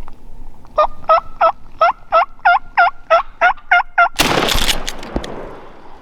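Wild turkey yelping, a run of about eleven evenly spaced calls at about three a second, cut off about four seconds in by one very loud shotgun blast that rings out over the next second.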